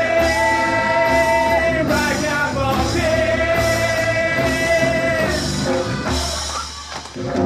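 Live band playing the opening of a reggae song over a steady beat, with long held sung notes, one about a second long near the start and a longer one from about three seconds in. The music dips briefly near the end.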